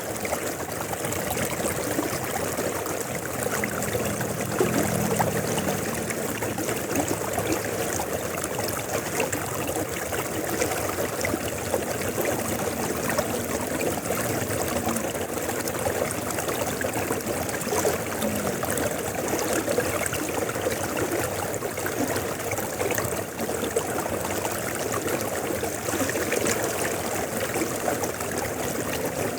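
River water flowing and splashing steadily, with a faint low hum coming and going in the background.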